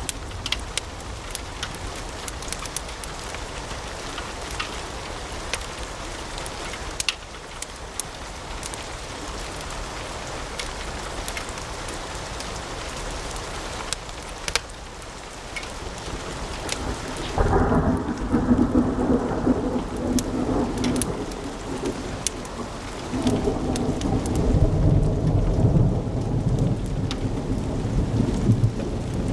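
Wood fire in a fireplace crackling, with a steady hiss and frequent sharp pops and snaps. About seventeen seconds in, a louder low rumble takes over and the high crackle fades; the rumble dips briefly and comes back near the end.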